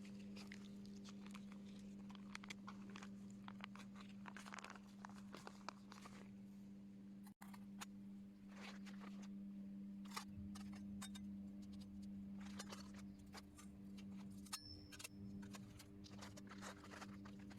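Faint, irregular clicks and crackles over a steady low hum.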